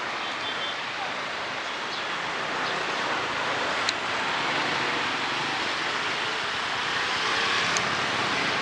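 Steady outdoor street ambience: an even hiss with a few light sharp clicks.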